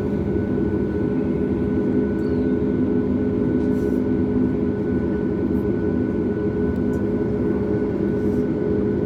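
Steady cabin drone of a Boeing 737 MAX airliner on the ground waiting to depart, a constant rushing noise with several low hums and two fainter higher tones held throughout.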